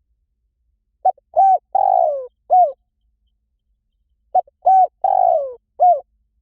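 Spotted dove cooing: two identical phrases about three seconds apart. Each phrase has a couple of short notes, a longer coo that falls in pitch, and a short closing note.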